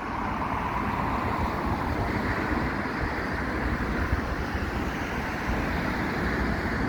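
Steady outdoor noise of road traffic going by, with wind rumbling on the microphone.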